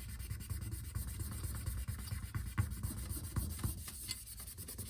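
Cloth rag soaked in isopropyl alcohol rubbing back and forth over a MacBook Pro's aluminium top case, scrubbing off leftover battery adhesive, with uneven strokes and small scrapes.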